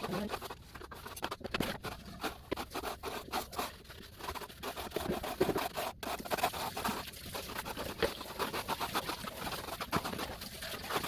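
Birds, probably doves, cooing softly amid many small scratches and clicks.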